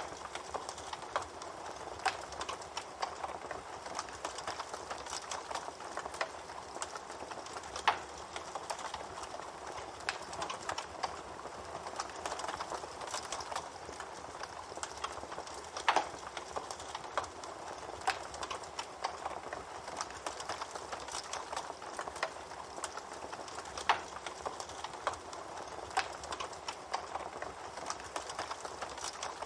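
Campfire burning with a steady hiss and constant crackling of wood, with a few louder pops about every eight seconds.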